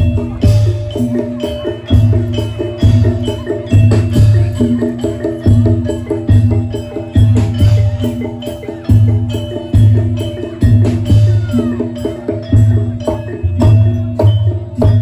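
Jaranan (kuda lumping) gamelan-style music: a steady beat of deep struck strokes about every 0.8 s, with ringing pitched metal tones and quick percussion strikes over it.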